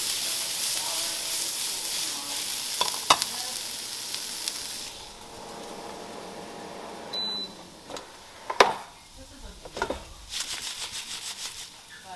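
Food sizzling as it fries in a hot pan, a steady hiss that stops about five seconds in. A few sharp clicks and utensil-and-dish clatter follow.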